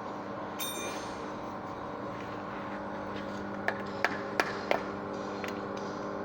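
Steady machine hum with one ringing metallic ping about half a second in. From a little past halfway come four sharp hammer blows on metal, about three a second.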